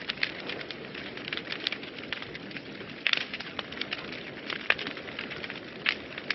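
Wood fire burning in a fireplace, crackling and popping steadily over a low rushing bed, with a louder burst of crackles about three seconds in.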